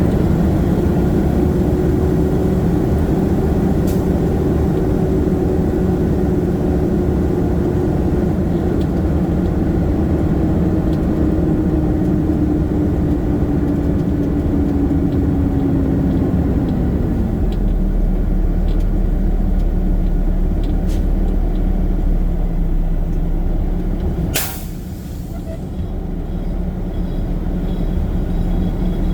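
Garbage truck's diesel engine running on the road, its pitch sinking slowly as it eases off, then holding steady. About 24 seconds in comes one short, sharp hiss of air, likely from the air brakes, and the sound dips briefly after it.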